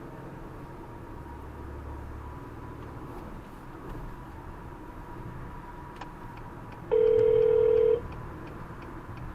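Steady car-cabin road noise, then about seven seconds in a single loud telephone ring tone lasting about a second as the outgoing 911 call rings through.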